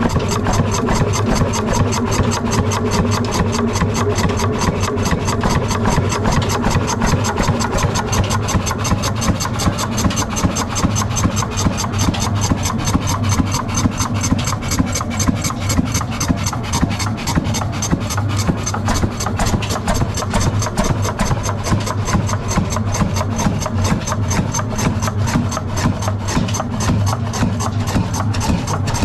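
Large Ruston Hornsby stationary diesel engine running steadily with a rapid, even beat, along with a rubbing, rasping noise from the flour mill it drives.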